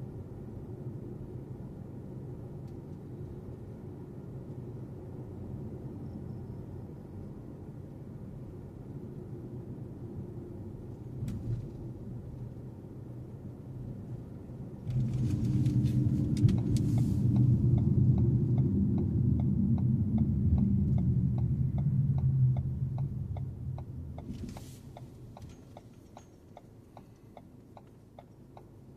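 Road and engine rumble inside a moving car. About halfway through the rumble swells much louder for several seconds, then dies away. Meanwhile a turn-signal relay starts ticking steadily.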